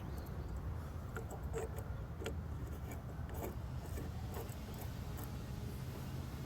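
Faint scattered metallic clicks and taps of small plumbing fittings being handled, over a steady low rumble.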